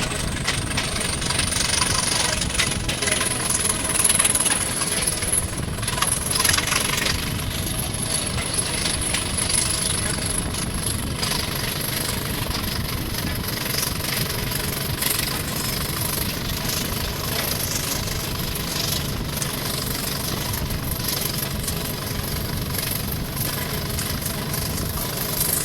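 Class 20 diesel locomotive's English Electric engine running steadily, with a high whine that rises over the first few seconds and then holds.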